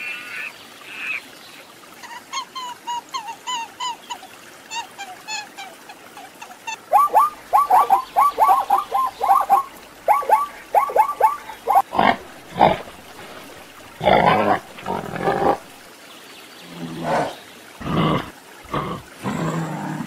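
Several animal calls in turn: a few short high calls, a run of quick chirps, then zebras barking, first a fast series of sharp yelps and then harsher, breathy honks in separate bursts.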